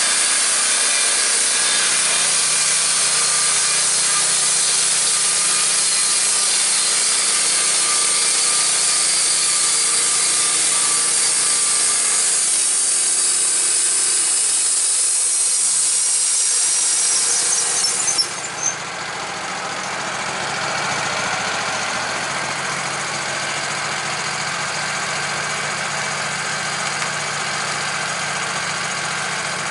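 Steady machine noise that drops abruptly about two-thirds of the way through, leaving a quieter steady running hum.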